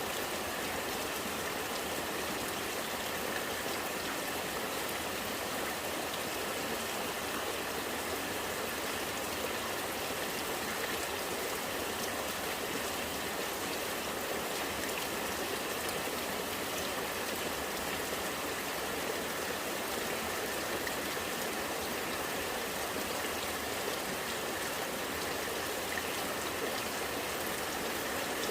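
Rainwater running and gurgling in a steady, unbroken flow.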